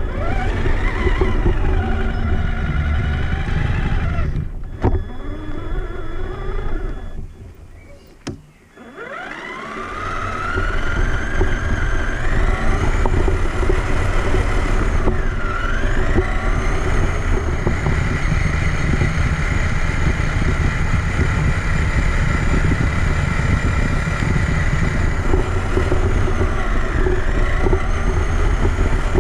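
Traxxas Summit RC truck's electric motor and geared drivetrain whining, heard onboard over the rumble of its tyres on the ground. The truck eases off about four seconds in and goes nearly quiet for a couple of seconds, with a sharp click. It then winds back up with a rising whine and holds a steady speed.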